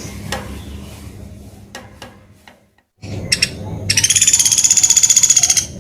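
Pelatuk beras (Sunda pygmy woodpecker) giving a rapid, high trill of about ten notes a second, lasting nearly two seconds, starting about four seconds in.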